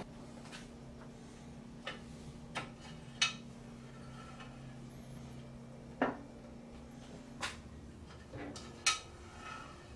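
Sharp metal clinks and clanks, about six of them, over a steady electric motor hum; the hum stops with a clank about seven and a half seconds in.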